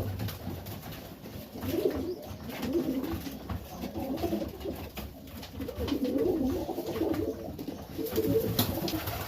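Serbian Highflyer pigeons cooing in a loft, low murmuring coos overlapping and swelling in repeated phrases.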